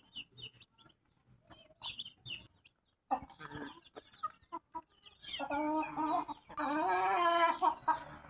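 Chickens clucking and calling: short high peeps at the start, scattered short calls, then louder drawn-out calls from about five seconds in, the longest near the end.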